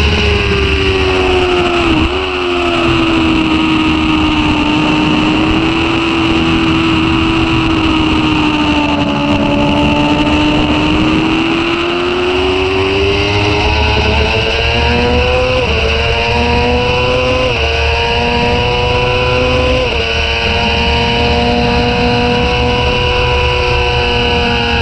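Sport motorcycle engine under load, ridden hard on track, with wind rush over the microphone. The revs dip at a gear change about two seconds in, sag through a corner, then climb, and three quick upshifts in the second half step the pitch down each time before it rises again, holding high revs near the end.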